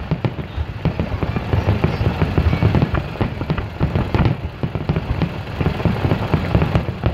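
Fireworks display: a rapid, unbroken barrage of bangs and crackles, many a second, over a low rumble of booms.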